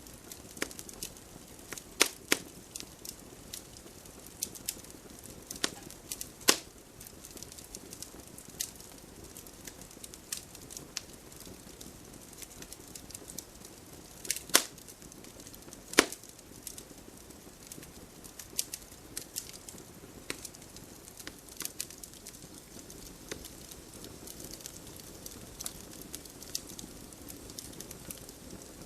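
Wood fire crackling in a fireplace: a steady low hiss with irregular sharp pops and snaps, a few of them louder, at about 2, 6.5, 14.5 and 16 seconds in.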